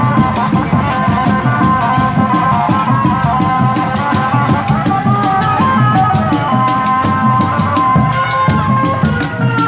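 Loud kuda renggong accompaniment music: busy, steady drumming with a held, gliding melody line above it.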